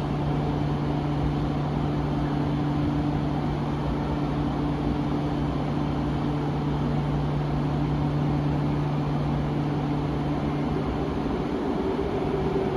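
Electric train running steadily, most likely the KORAIL ITX-Saemaeul, heard as an even rumble with a constant low hum. A higher hum joins near the end.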